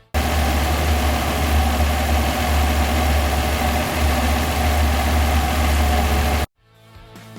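Car engine running steadily under the bonnet, with a strong low rumble. It starts abruptly and cuts off suddenly about six and a half seconds in.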